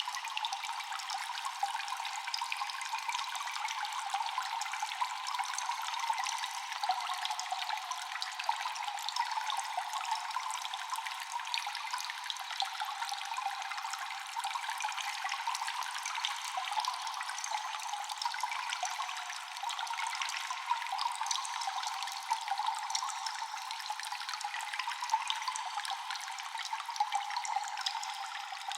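Cave ambience of constant dripping water: a dense, steady patter of many small drops over a watery trickling hiss, echoing. The sound is thin, with no low rumble underneath.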